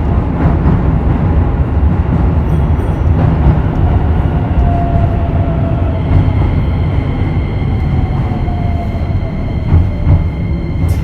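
Keisei 3000 series electric train running on the rails: a steady rumble with a faint whine that slowly falls in pitch through the middle. A steady high tone comes in about halfway, and a couple of sharp wheel clacks come near the end.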